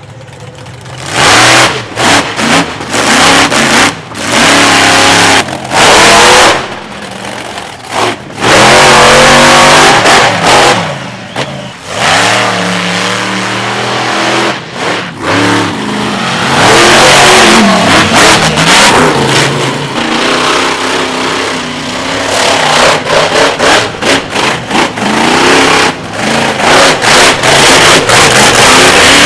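Monster truck engines revving hard, again and again, their pitch rising and falling in loud bursts with short drops in between.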